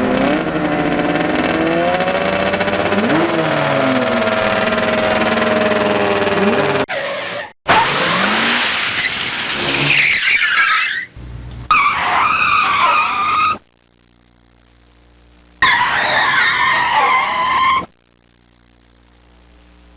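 A car engine revving, its pitch rising and falling, for about seven seconds. After an abrupt cut comes a string of short tyre squeals, each about two seconds long and cut off sharply.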